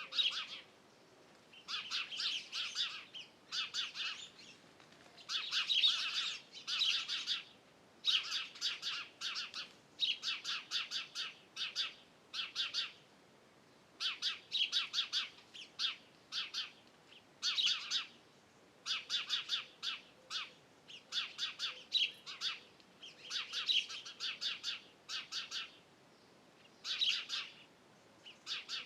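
Songbirds chirping: short bursts of quick high chirps, repeated about once a second with brief pauses between them.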